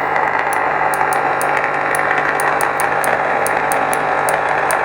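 Custom lightsaber's sound board playing Lord Blako's Durindfire sound font: a steady low hum with a fizzing crackle and light ticks about four times a second.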